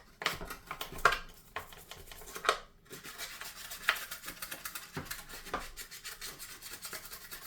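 Old toothbrush scrubbing the plastic of a washing machine detergent drawer, with quick scratchy strokes and a few light plastic knocks.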